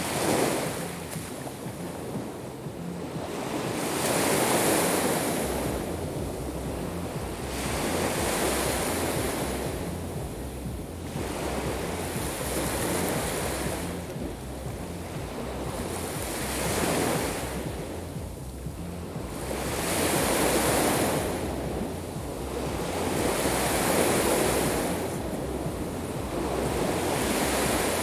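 Sea waves breaking on the shore, a rush of surf that swells and fades about every four seconds, with wind rumbling on the microphone.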